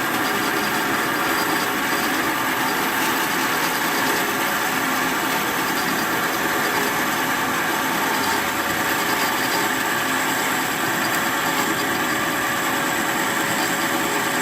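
Bandsaw running steadily with a hum of even tones, its blade cutting slowly through a wooden pipe block.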